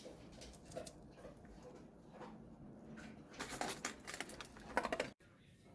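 Faint room sounds with scattered light clicks, then a denser run of clicks and rustles about three seconds in. The sound cuts out abruptly near the end.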